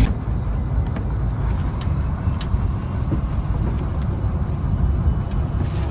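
A fishing trawler's engine running steadily, a low rumble with a few faint ticks over it.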